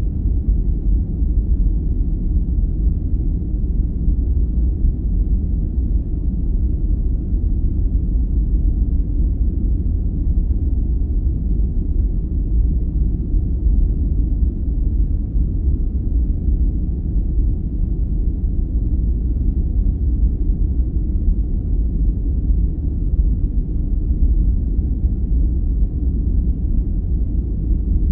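Steady, deep rumbling sleep noise, a continuous hiss-free roar heavy in the bass with little above the low mids, unchanging throughout.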